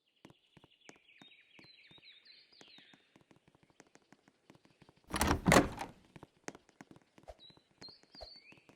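Small birds chirping in short repeated calls, with faint scattered ticks and a louder rough thump or scrape lasting about a second, about five seconds in.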